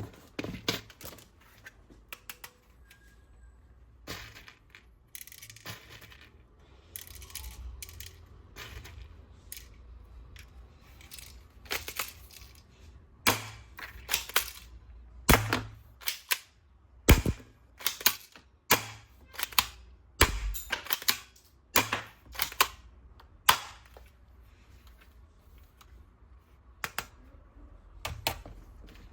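Irregular sharp clicks, snaps and knocks of hard plastic toys being handled and unboxed, with several louder snaps through the middle stretch.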